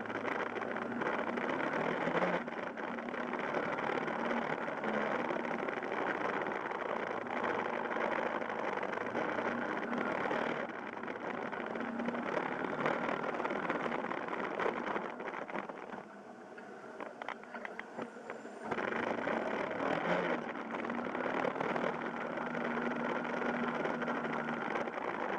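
Yamaha Fazer YS250's air-cooled single-cylinder engine running while riding. It falls quieter for a couple of seconds past the middle, then comes back up suddenly.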